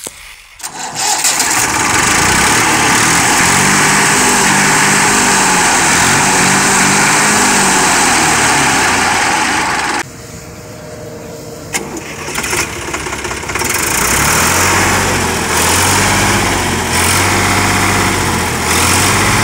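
Diesel tractor engine running. The sound comes in loud about a second in, drops about ten seconds in, and the steady engine note returns a few seconds later.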